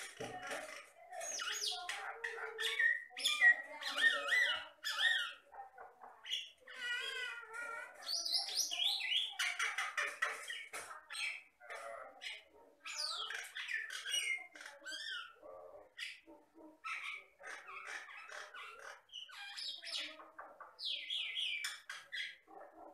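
Jalak Batam myna singing a long, varied song without pause: quick chirps, rising and falling whistles, a wavering trill about seven seconds in, and harsh squawking notes.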